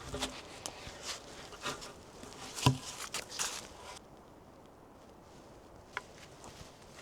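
Footsteps crunching in snow, irregular, with one heavier knock a little under three seconds in; the sounds thin out after about four seconds, leaving only a single click near the end.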